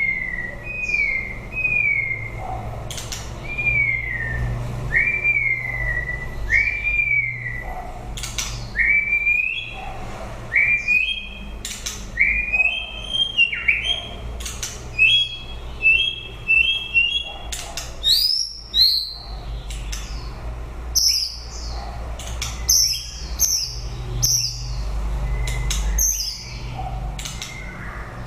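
White-rumped shama singing: a run of clear whistled notes, about one a second, first falling slurs, then rising notes that step higher in pitch, turning to higher, quicker phrases about two-thirds of the way in.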